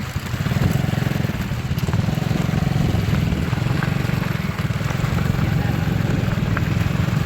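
Small motorcycle engine running steadily, with a fast, even low pulse throughout.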